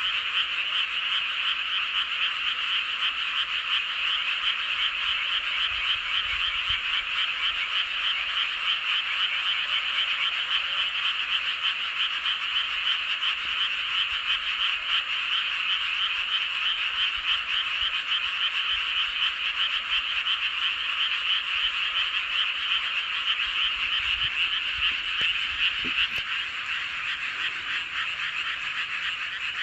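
Dense chorus of many paddy frogs calling at once, a steady, unbroken wall of croaking with no pauses.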